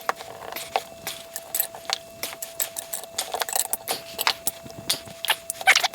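Metal parts clinking and rattling in irregular sharp clicks as a stuck brake shoe is worked out of a vintage scooter's front brake drum, with a burst of clicks near the end.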